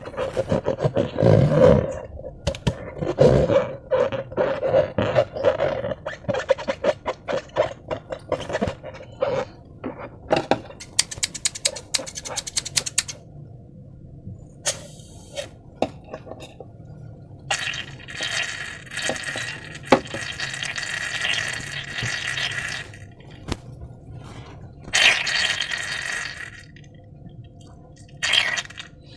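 Sticky slime squishing and squelching as it is handled: a fast run of wet clicks and squelches for the first ten seconds, then several longer hissing squelches, the longest lasting about five seconds.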